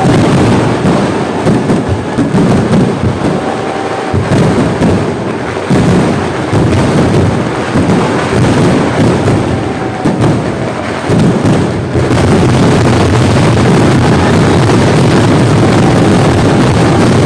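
A dense barrage of large firework explosions going off in rapid succession, bangs and booms overlapping. From about twelve seconds in they merge into one steady, unbroken din.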